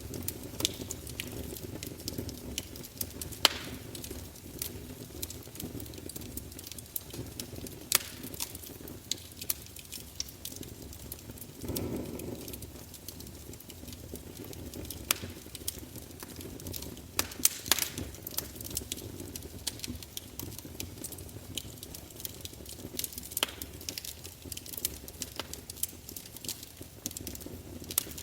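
Log fire burning with a low steady rumble, popping and crackling at irregular moments, with a few sharper pops and a brief swell about twelve seconds in.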